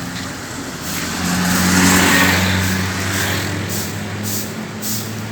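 A motor vehicle drives past with a steady engine hum. The engine and tyre noise swells to its loudest about two seconds in, then fades.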